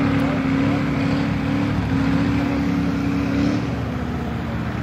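Ford truck engine running steadily; its pitch drops a little about three and a half seconds in, as the revs ease off.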